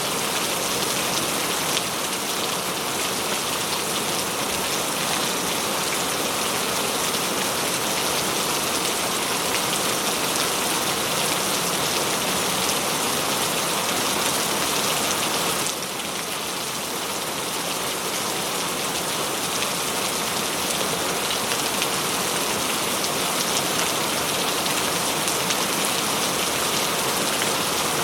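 Steady rain falling on a surface: an even hiss with a dense patter of drops. The level dips slightly a little past halfway, then carries on.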